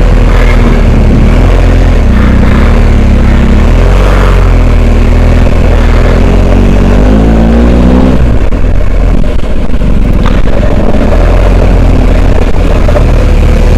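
Adventure motorcycle engine running under way on an off-road track, picking up revs about six seconds in and easing off about two seconds later.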